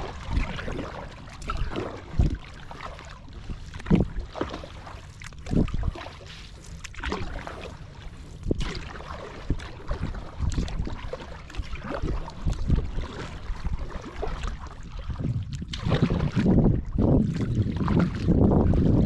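Kayak paddle strokes splashing in open water, an irregular splash every second or two, with wind on the microphone that grows louder near the end.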